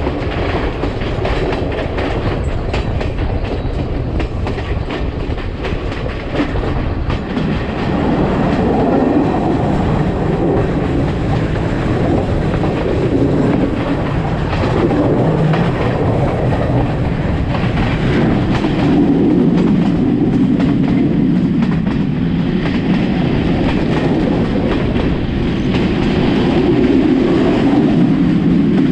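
Sri Lanka Railways passenger train running along the line: a steady rumble of wheels on rail with a clickety-clack of rail joints, growing a little louder about eight seconds in.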